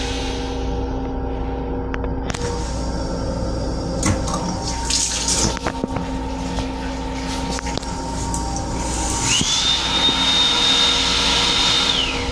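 Water running in a railcar restroom's toilet or sink, with a few clicks, then a motor whine that spins up about nine seconds in and winds down near the end, over the train's steady hum.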